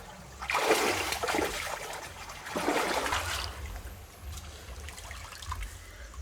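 Water splashing and trickling, with two louder splashy spells, about half a second in and again around two and a half seconds in, then softer trickling.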